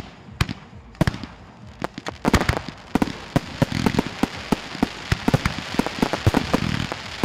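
Fireworks and firecrackers going off: a few separate bangs at first, then a rapid, irregular string of bangs and crackles from about two seconds in.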